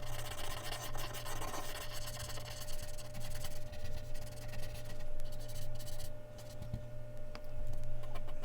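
Mechanical pencil scratching on Bristol paper in quick, repeated shading strokes. The strokes pause about six seconds in and resume near the end, over a low steady electrical hum.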